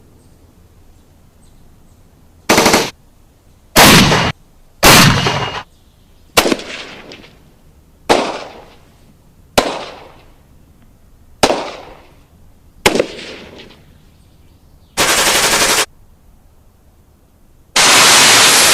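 Gunfire sound effects: three short bursts of automatic fire, then five single shots a second or two apart, each ringing out with a fading echo, then another short burst. A long, loud, unbroken blast of noise begins near the end.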